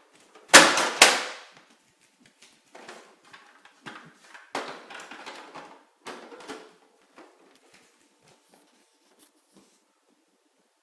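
Toys being handled: two loud sharp knocks about half a second apart, then a scattering of lighter knocks and clatter that dies away about seven seconds in.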